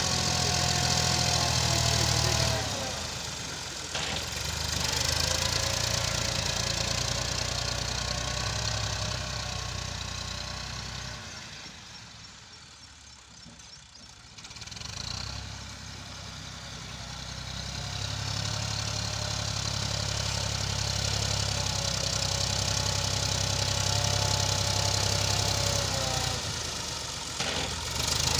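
Tractor's diesel engine running while working a front blade. The sound swells and fades, drops to its quietest about halfway through, then builds again.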